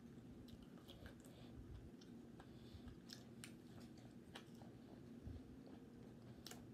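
Faint close-up chewing and mouth sounds of a person eating, with scattered small clicks and crunches.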